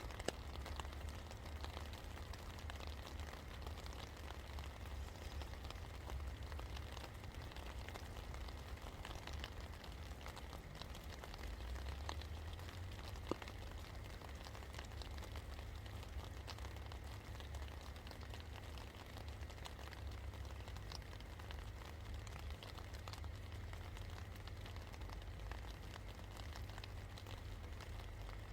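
Steady rain falling, a dense patter of small drop ticks over a constant low rumble, with one sharper tick about halfway through.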